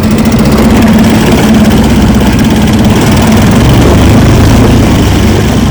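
Outboard motor running steadily at a low, trolling-speed idle.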